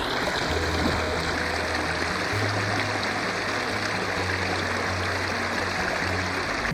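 Water running steadily over rocks in a small garden water feature, with soft background music's low bass notes underneath.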